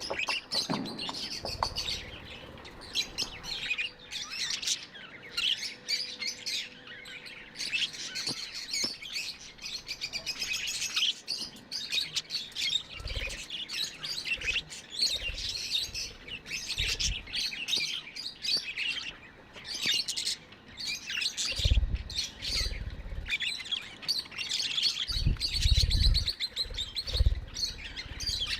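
Budgerigars chirping and warbling in a continuous rapid chatter of high, quick notes. Several dull low thumps come through in the second half.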